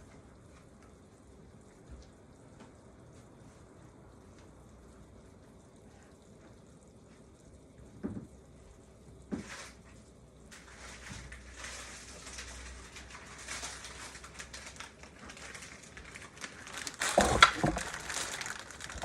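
Pot of chicken soup with macaroni bubbling on the stove: a crackling, spitting boil that sets in about halfway through, after two short knocks, with a louder clatter of cookware near the end.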